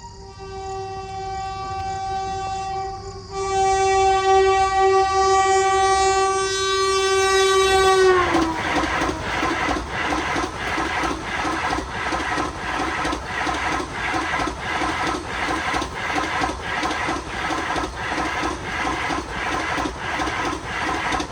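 A high-speed passenger train, the Vande Bharat Express train set, sounds a long steady horn chord as it approaches, and the horn gets louder about three seconds in. After about eight seconds the horn's pitch drops as the train reaches the crossing. The train then runs past with a steady rhythmic clatter of wheels over rail joints, about two beats a second.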